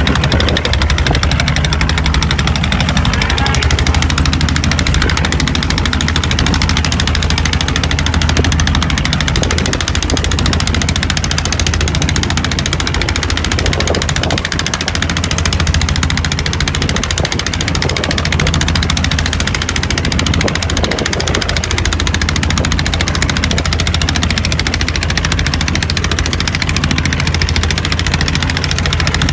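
Boat engine running steadily, a continuous low drone with a rushing hiss over it.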